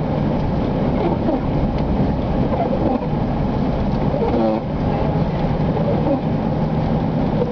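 Steady engine and road noise heard inside a moving vehicle's cabin at highway speed, with a low steady hum. A voice briefly speaks about four and a half seconds in.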